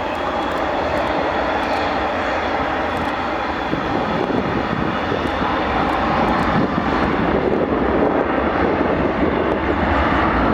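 Jet airliner engines, a steady roar with a faint high whine, growing gradually louder.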